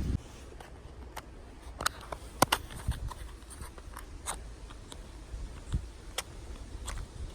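Scattered, irregular sharp clicks and light knocks of objects being handled, the loudest about two and a half seconds in.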